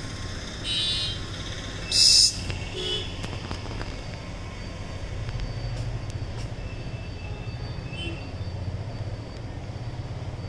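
Steady low rumble of passing traffic, with a loud, short, high-pitched sound about two seconds in and a fainter one just before the first second.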